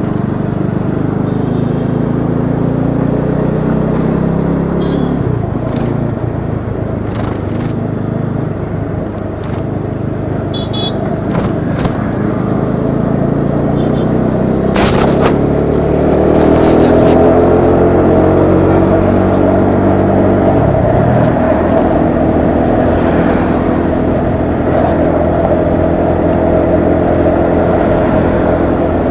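Bajaj Dominar 400's single-cylinder engine running under way in traffic. The revs climb about halfway through and drop back a few seconds later, then hold steady.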